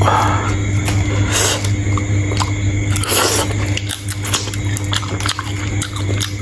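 Close-miked chewing and biting of sea shrimp: a dense run of wet clicks with two louder crackly bites, about one and a half and three seconds in. A steady low hum lies underneath.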